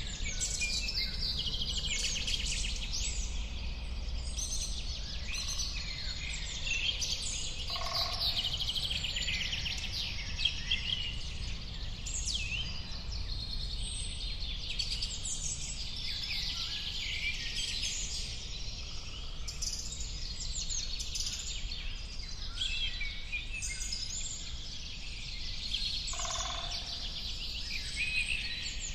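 A dense chorus of many small birds chirping and trilling over one another, with a lower call standing out twice, about eight seconds in and near the end. A steady low rumble runs underneath.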